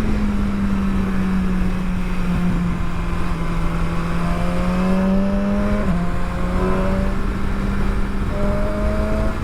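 Motorcycle engine pulling steadily at road speed under wind rush. The engine note climbs slowly, dips briefly about six seconds in as at a gear change, then climbs again.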